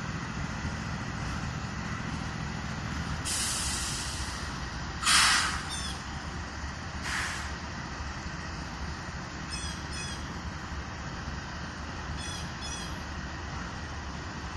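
Diesel freight locomotives idling with a steady low rumble, broken by bursts of compressed air hissing from the train's air brakes. The loudest, sharpest burst comes about five seconds in.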